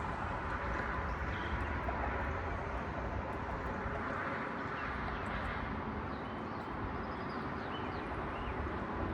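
Outdoor ambience on a nature trail: a steady low rumble and hiss with a few faint, brief bird chirps.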